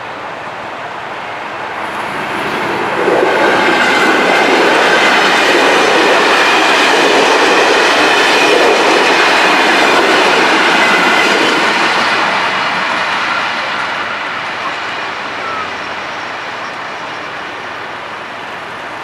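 Passenger train passing over a level crossing: wheels rattling on the rails with a high ringing tone above. It builds up, stays loud for about nine seconds, then fades away.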